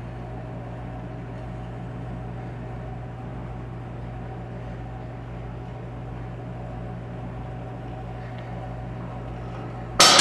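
A steady low mechanical hum, then a sudden loud crack near the very end as a part on the split antique John Deere tractor breaks under the floor-jack load.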